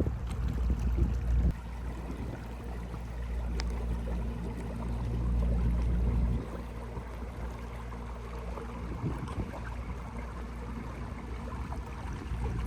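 Small jon-style micro boat moving along on an electric trolling motor: a steady low hum with water wash around the hull. A heavier low rumble drops away about a second and a half in and again past the middle.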